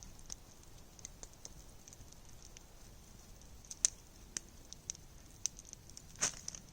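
Campfire crackling faintly, with scattered sharp pops; the loudest come about four seconds in and just after six seconds.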